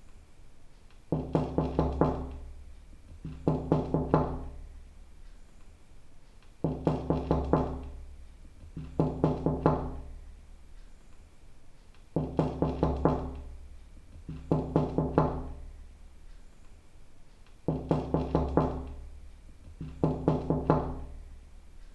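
Knocking on a door in quick bursts of four or five raps, eight bursts in all. They come in pairs about two seconds apart, with a longer pause between pairs, and each burst rings with a hollow resonance.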